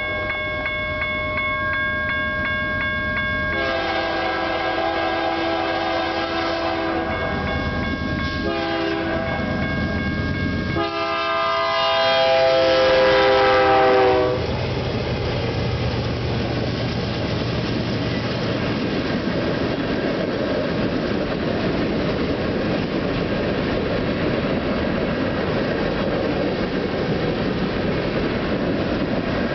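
A grade-crossing bell rings as a freight train led by a GE C44-9W and a GE ES44DC diesel locomotive approaches and blows its air horn in several long blasts. The last blast is the loudest and drops in pitch as the locomotives pass the crossing. The engines rumble by, and then a long string of covered hopper cars rolls past with a steady clatter of wheels on rail, the bell still ringing faintly.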